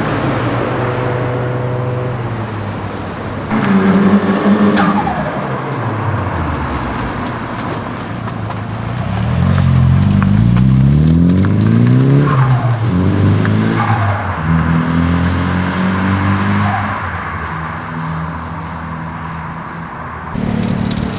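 Modified Nissan Silvia's engine revving hard, its pitch climbing and dropping several times.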